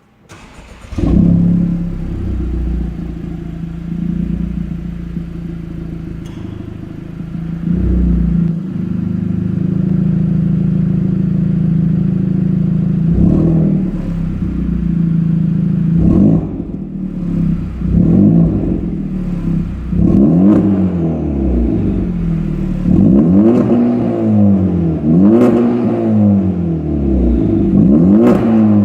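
Honda Civic Type R FK2's turbocharged 2.0-litre four-cylinder starting up about a second in and idling steadily, then revved again and again in short blips that rise and fall, coming quicker in the second half. It runs through a Scorpion exhaust with the front muffler replaced by straight pipe (non-resonated).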